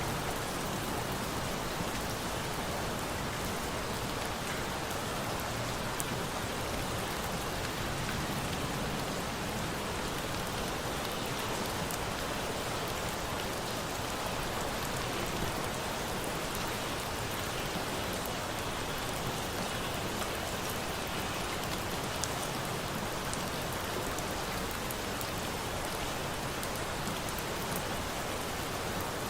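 Steady rain falling, an even hiss that never lets up, with a few sharp crackles from a wood fire scattered through it.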